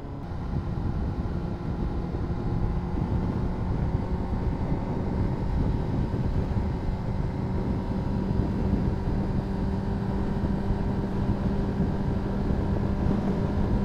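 Honda CBR600RR inline-four engine running at steady revs while cruising, under a constant rush of wind noise.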